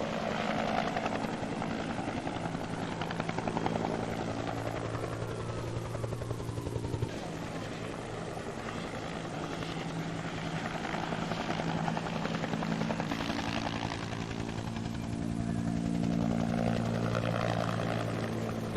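A steady, low mechanical drone with a fast, even pulse, like an engine or rotor running continuously. It eases a little about a third of the way in and swells again in the second half.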